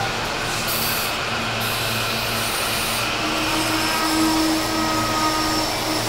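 SEPTA electric multiple-unit commuter train passing close by: a steady rumble of wheels on rails, with a steady electric whine that comes up about three seconds in.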